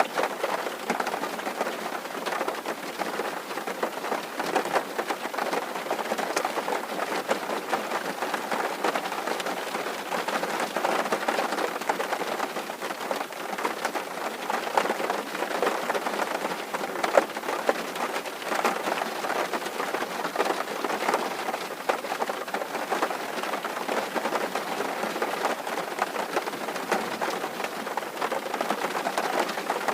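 Rain falling steadily on a tin roof: a dense, even patter of countless small drops tapping the metal.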